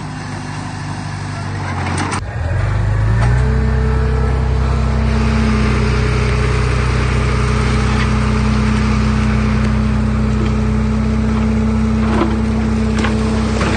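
Heavy diesel engine of earthmoving machinery running. About two seconds in, after a sharp knock, it revs up and then holds a steady, higher note.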